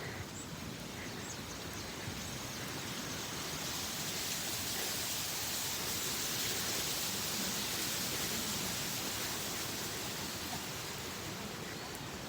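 Steady outdoor hiss that swells gradually through the middle and eases off near the end.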